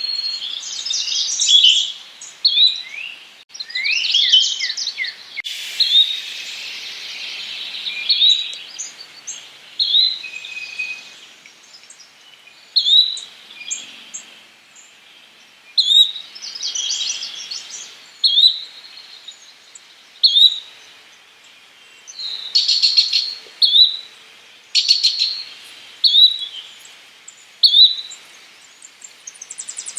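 Yellow-bellied flycatcher giving a short rising call over and over, about once every two seconds, with trills and chatter from other songbirds mixed in at times.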